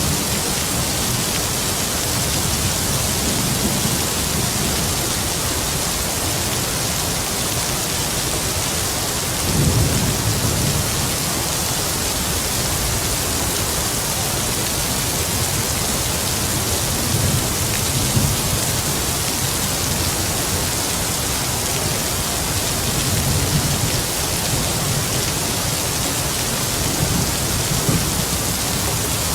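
Heavy rain falling steadily, with distant thunder rumbling low several times, the strongest roll about ten seconds in.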